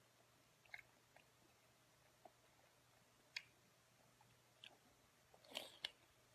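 Faint wet chewing and biting of a mouthful of fatty braised pork, a scatter of soft mouth clicks and smacks a second or so apart, with a louder cluster of smacks near the end.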